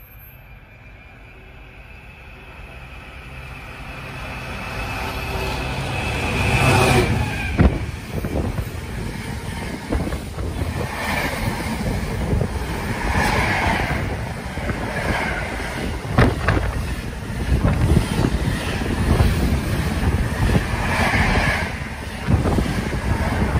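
Container freight train approaching and running through a station: a steadily growing rumble with a thin high tone from the rails, a sharp surge as the locomotive passes about seven seconds in, then the loud clatter and rattle of the container wagons' wheels over the rail joints.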